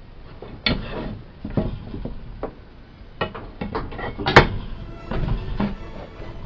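Irregular knocks and clatter of hard objects being handled and set down, with one sharp knock about four seconds in.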